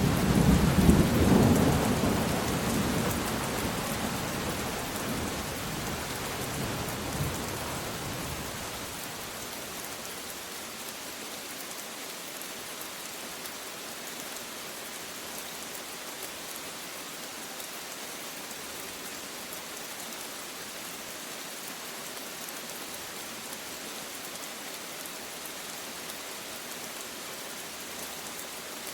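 Steady rain falling, with a long roll of thunder that is loudest about a second in and dies away over the first eight or nine seconds, leaving only the even hiss of rain.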